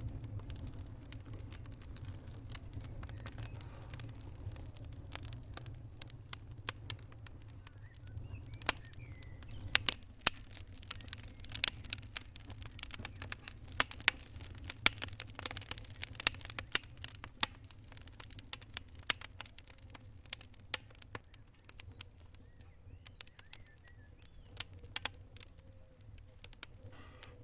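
Fire crackling: irregular sharp pops and snaps, thickest in the middle stretch, over a low steady rumble.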